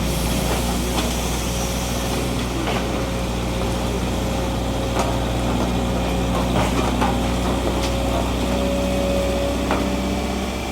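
A heavy diesel engine running steadily at low revs, with a steady whine over it. Scattered knocks and clatters come throughout, a few of them clustered around the middle.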